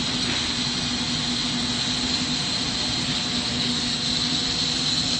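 Steady rushing noise of a glassworking torch flame and the shop's ventilation running together, with a constant low hum and a high hiss.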